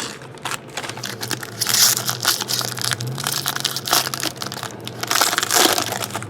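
A baseball card pack's wrapper crinkling and crackling as it is torn open and crumpled in the hands, in irregular bursts that are loudest about two seconds in and again near the end.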